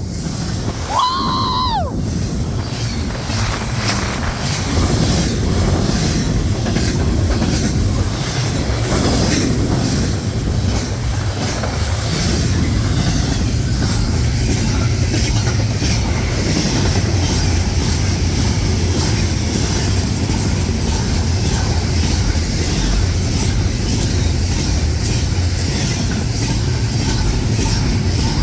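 A train rolling past close by, with a steady rumble and rush of wheels on the rails that builds from about four seconds in and holds. There is a short tone about a second in.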